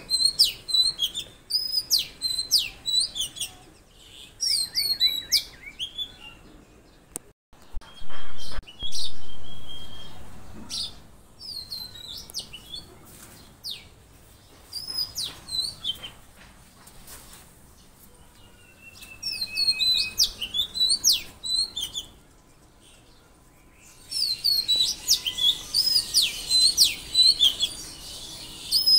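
Small songbirds chirping: clusters of short, high, quickly repeated calls with quieter pauses between them. A loud low knock about eight seconds in is the loudest sound.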